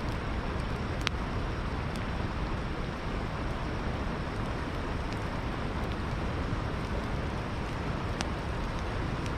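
Campfire crackling with a few scattered sharp pops over the steady rush of river water.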